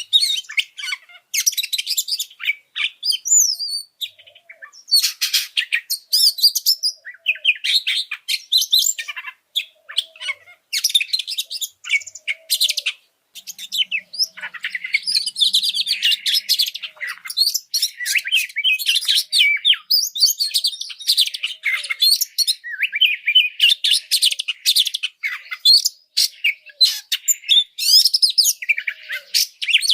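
Oriental magpie-robin (kacer) singing a loud, rapid, varied song in repeated bursts with short pauses, the excited song used as a masteran tutor recording to work up caged magpie-robins.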